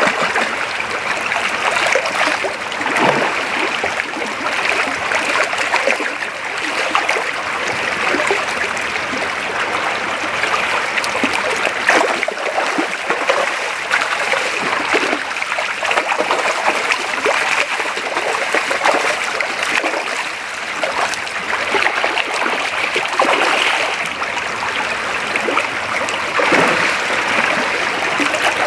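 Creek water flowing steadily over a shallow bed, with brief splashes every few seconds.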